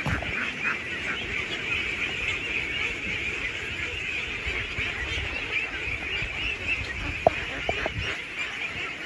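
A large flock of ducks calling all at once, a dense unbroken chatter of many birds, with one sharp knock about seven seconds in.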